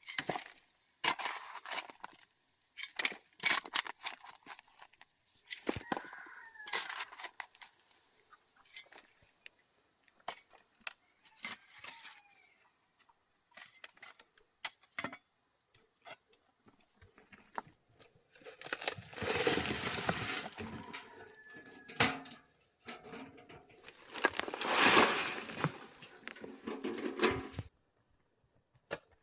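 Irregular knocks and clatter, like stones being handled, with two longer rough scraping bursts in the second half, and a chicken clucking now and then.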